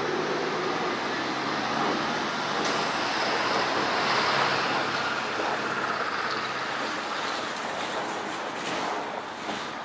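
Steady rumbling and rushing noise of a train on the line, with a faint low hum, swelling a little about four seconds in and easing toward the end.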